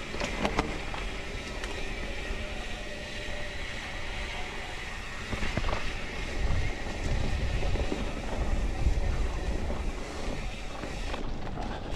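Wind buffeting the microphone over the noise of a mountain bike riding a dirt singletrack trail, with a few knocks and rattles from bumps. The wind rumble grows stronger about halfway through.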